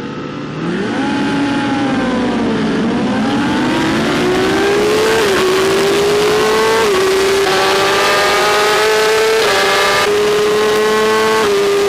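BMW S1000RR inline-four superbike engine with a Graves exhaust, heard on board as the bike accelerates through the gears. The pitch rises and falls once at the start, then climbs steadily, dropping a step at each upshift, about four shifts in the second half.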